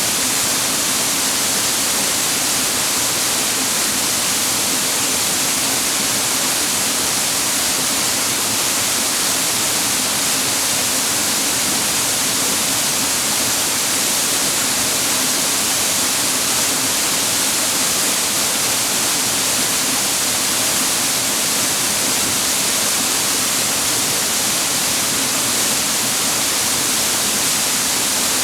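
Waterfall: the steady, unbroken hiss of falling water, strongest in the high range.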